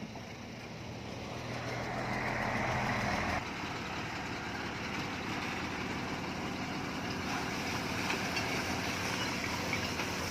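Engine of heavy earthmoving machinery running. It builds up over the first few seconds, changes abruptly about a third of the way in, then runs on steadily.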